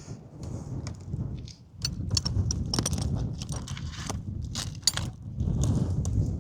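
Metal clinking and rattling, many quick clicks over a rumble of handling noise, as hardware or tools are worked during antenna repair.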